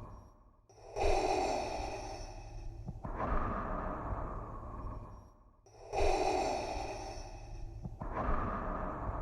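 Darth Vader's mechanical respirator breathing, the hissing in-and-out breath through the mask. Two full breath cycles, each about five seconds long, separated by a brief pause, over a steady low hum.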